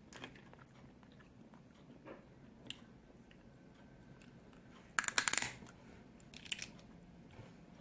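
Snow crab legs being cracked and eaten close to the microphone: faint clicks and chewing, then a short burst of sharp cracking crunches about five seconds in and a smaller one a second and a half later.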